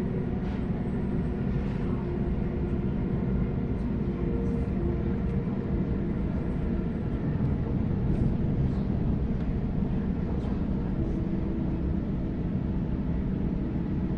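Inside a moving Sydney Trains Waratah electric train carriage: a steady running rumble of wheels on track, with faint humming tones and an occasional light tick.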